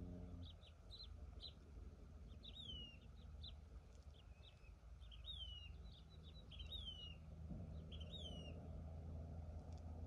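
Say's phoebe calling: a faint, falling whistled note repeated about every second and a half, with short chirping notes between.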